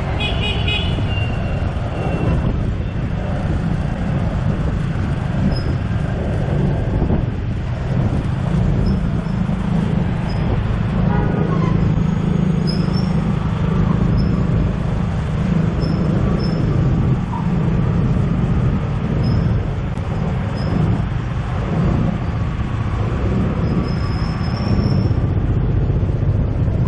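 Ride on the back of a motorbike taxi through dense city traffic: the bike and the traffic around it run steadily under a heavy low wind rumble on the microphone. Short high-pitched beeps come and go through the ride.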